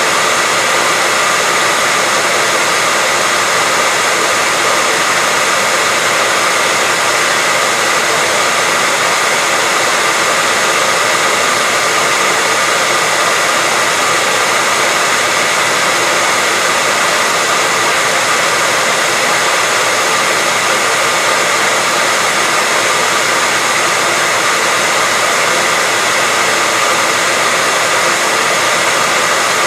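Hair dryer running continuously at a steady speed: a loud, even rushing hiss of blown air with a faint constant whine from the motor and fan.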